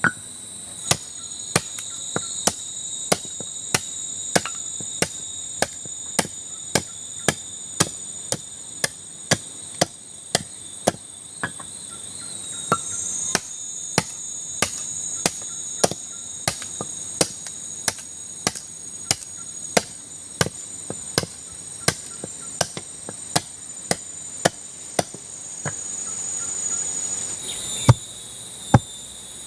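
Sharp knocks struck at a steady pace, about three every two seconds, with a louder knock near the end. Behind them, crickets trill steadily at high pitch.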